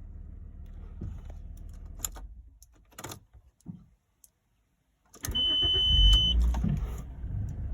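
Audi 2.8 V6 (ACK) engine idling, then shut off about two and a half seconds in, followed by a few clicks and a moment of quiet. About five seconds in it is cranked and starts, flaring up and settling back to a steady idle, with a steady high beep sounding during the start.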